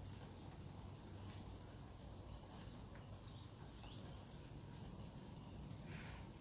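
Faint outdoor background with a few short, high bird chirps scattered through it and a brief falling call near the middle.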